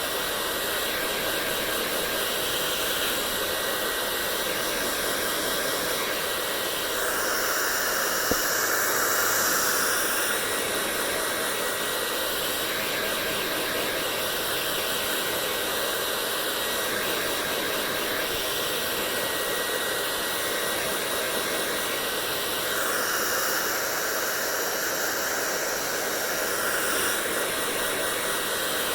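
Hair dryer running steadily: a constant airy rush with a faint steady whine in it. Twice it turns brighter and a little louder for a few seconds, and there is one small click about eight seconds in.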